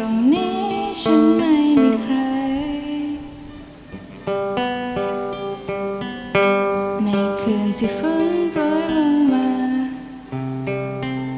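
Guitar music: plucked chords under a melody that slides between notes, with a low bass note coming in near the end.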